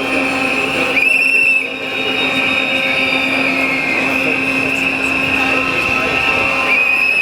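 Shrill whistle blowing: a short blast about a second in and a long held blast starting near the end, with a fainter steady whistle tone between them, over crowd noise.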